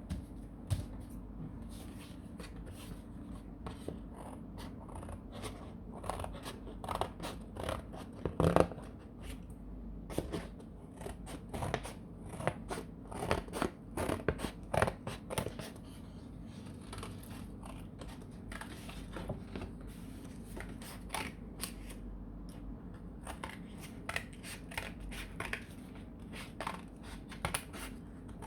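Scissors snipping through cardboard, cutting around a shape in many short, irregular snips, with pauses between runs of cuts.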